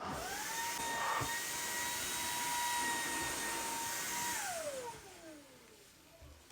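Cordless stick vacuum cleaner switched on: its motor whine rises quickly to a steady high pitch over a rush of air, with a brief tap about a second in. After about four seconds it is switched off and winds down in a falling whine.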